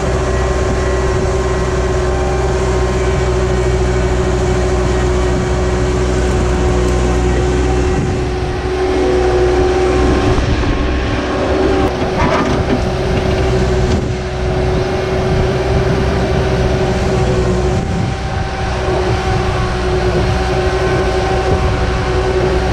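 Skid steer running and working a 4-in-1 combination bucket: a loud, steady engine drone with a constant tone over it, which loosens and shifts about halfway through before settling again.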